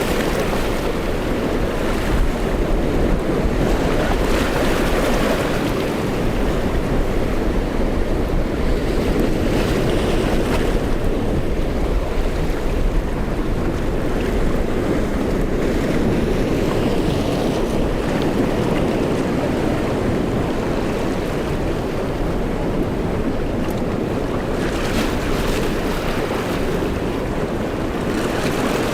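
Strong wind buffeting the microphone over steady surf and breaking waves, with gusts swelling a few times.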